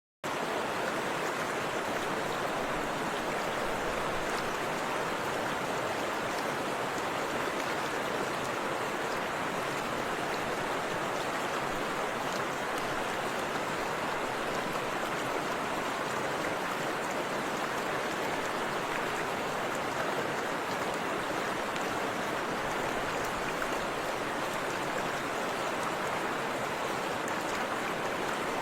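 Steady rush of a forest river's flowing water, starting abruptly out of silence right at the beginning.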